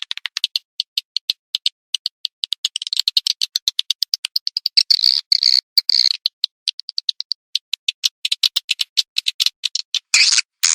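Swiftlet calling sound of the kind played as a lure for swiftlets: rapid trains of high, clicking chirps. Denser buzzy twittering comes about five seconds in and again near the end.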